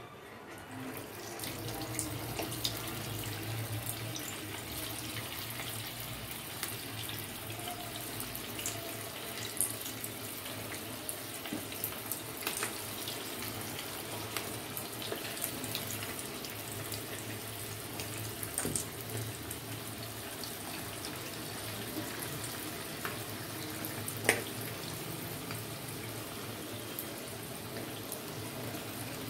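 Bread-and-potato triangles sizzling in hot oil in a frying pan: a steady hiss with scattered pops and crackles, swelling about a second in as the first pieces go into the oil.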